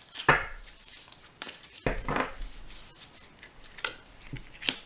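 Tarot cards being handled and shuffled: crisp clicks and short swishes of cards sliding against each other.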